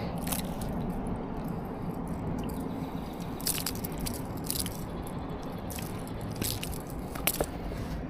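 Scattered short clicks and scrapes of handling over a steady background hiss, as a freshly landed goldeye is held and struggles.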